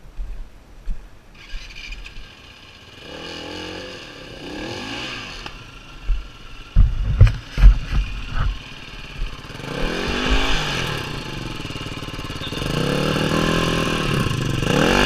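Dirt bike engine revved up and down several times as the bike works over rock, with a cluster of heavy thumps about halfway through.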